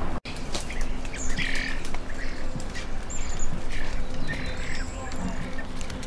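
Several birds calling: scattered short squawks and thin high chirps, with a brief trill about three seconds in, over a steady low background hum. The sound drops out for an instant just after the start.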